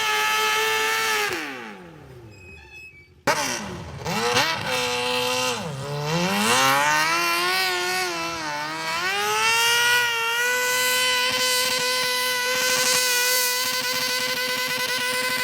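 Engine of a pulling tractor running steadily, then winding down and fading out about a second and a half in. After a short lull it comes back suddenly and loud, revving up and down several times before holding a steady high pitch.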